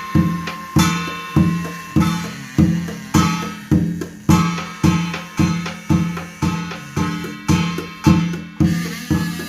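Korean shamanic gut music: a drum struck in a steady beat of about one and a half strokes a second, with a piri pipe playing sustained notes above it.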